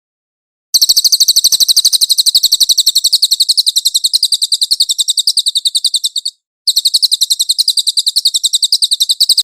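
Cililin songbird singing a rapid, even trill of sharp high chirps, about ten a second. The trill breaks off briefly a little past six seconds, then resumes.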